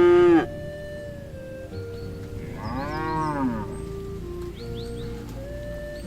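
Cattle mooing: a loud moo breaks off about half a second in, then a second, quieter moo about three seconds in rises and falls in pitch. Background music with held notes plays throughout.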